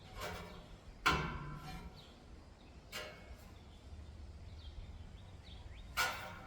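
Sharp metallic clanks with a short ring, four of them at uneven spacing, the second the loudest, from a 1960s Happy Home push-button fan's bent blade catching on its metal shroud. A low steady hum runs underneath.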